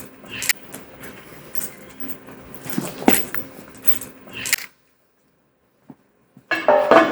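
Scattered knocks and clicks from parts and tools being handled during assembly, over a steady low hum. The sound cuts to dead silence for about two seconds, then a dense clatter starts near the end.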